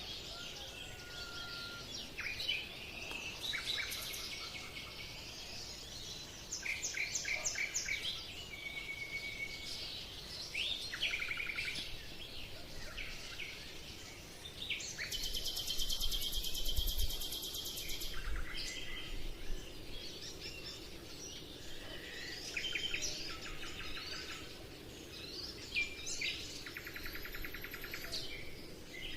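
Several birds singing and chirping, with short whistled notes and quick trills. A longer buzzy trill comes about halfway through, over a faint steady background hiss.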